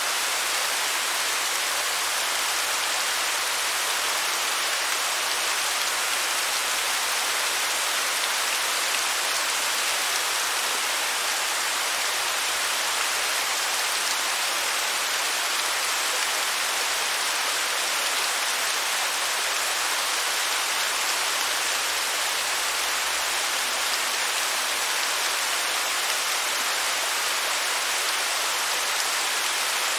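Waterfall cascading: a steady, unbroken rushing hiss, mostly in the higher range with little deep rumble.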